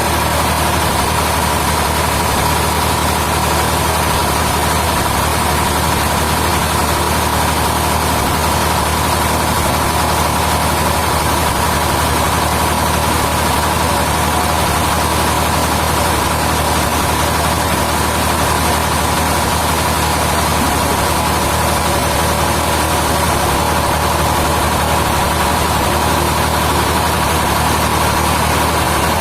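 Sawmill machinery running steadily with a low engine hum and a constant high whine, unchanged throughout.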